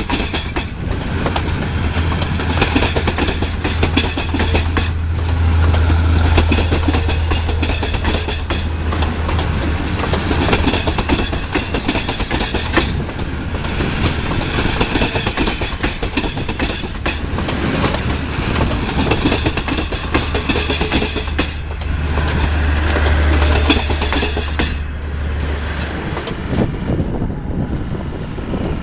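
A train running along the track: wheels clicking over the rails under a dense rolling noise. A low steady engine drone runs underneath and drops away near the end.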